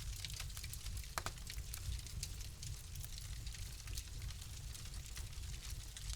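Wood fire crackling in a fireplace: scattered sharp pops and snaps over a low, steady rumble, with one stronger pop about a second in.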